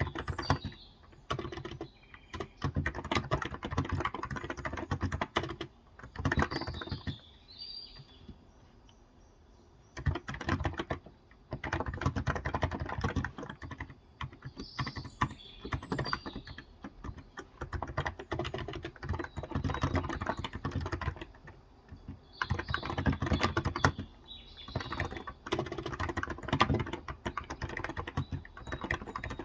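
Typing on a Cox Endeavour electro-capacitive (Topre-style) keyboard with light 35 g keys, in runs of several seconds broken by short pauses, including a longer one about eight seconds in. Birds chirp in the background a few times.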